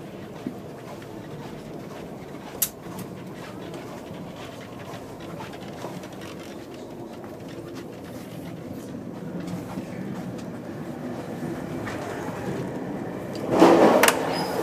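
Running noise of a VIA Rail passenger train heard from inside a sleeper-car corridor: a steady low rumble with a few sharp clicks. It grows louder in the last few seconds and surges loudly about 13 to 14 seconds in.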